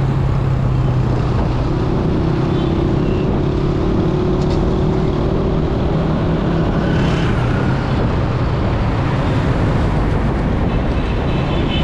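Motor vehicle engine running steadily under constant road and wind noise.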